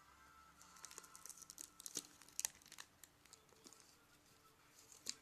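Faint crinkling of packaging being handled, in a cluster of crackles over the first few seconds and one more near the end.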